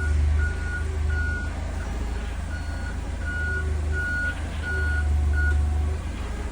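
Forklift reversing alarm beeping about eight times at an even pace over its running engine's low hum, the beeps stopping near the end.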